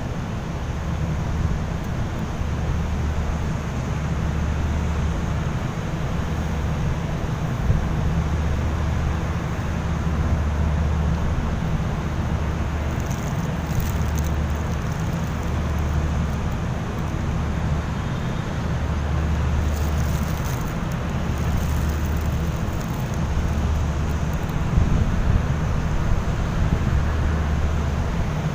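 Low engine rumble of a cargo ship berthing, swelling and fading every couple of seconds, with wind on the microphone.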